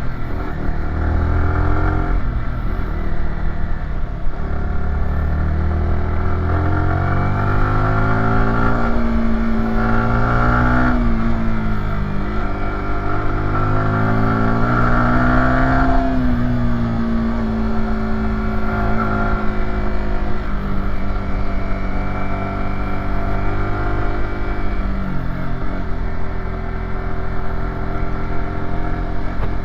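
Yamaha YZF-R125's single-cylinder four-stroke engine accelerating while climbing a hill: its pitch rises through the revs and falls back several times.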